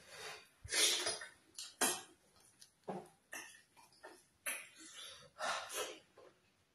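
Close-miked chewing and lip-smacking of fufu and vegetable soup: a string of short, wet mouth noises about a second apart.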